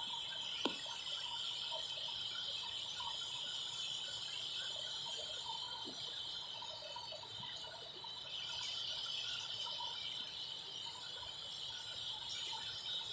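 Steady high, insect-like chirring, like crickets, with many faint short chirps scattered through it and a single sharp click about a second in.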